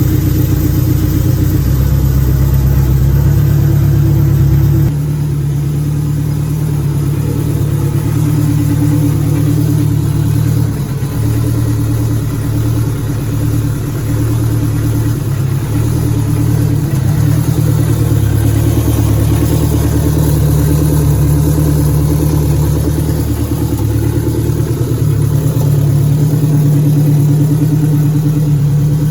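Honda K24A four-cylinder engine in a 1996 Honda Prelude running at a steady idle on its first start-up after the engine swap. The sound changes abruptly about five seconds in, with small dips in level around the middle.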